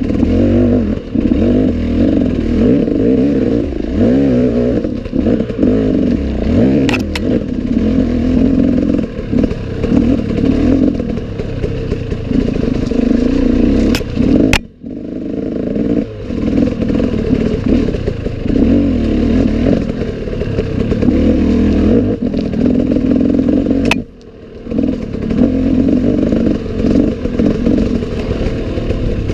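Enduro motorcycle engine running on a forest trail, the revs rising and falling with the throttle, with two brief drops in the engine sound, about halfway and again near the end, and a few light clicks.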